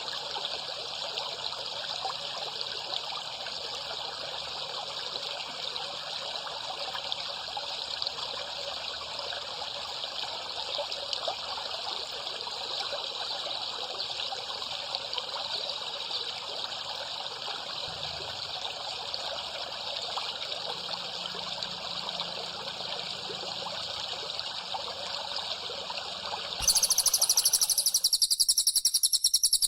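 Water trickling steadily. Near the end it stops and a loud, high-pitched, rapidly pulsing chirping starts abruptly.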